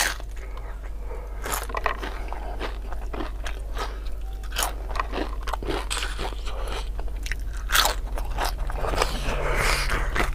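Close-up crunching bite into a crispy battered fried tempeh fritter, the loudest crunch right at the start, followed by steady crunchy chewing with repeated sharp crackles. Partway through, the fritter is scraped through sambal in a stone mortar.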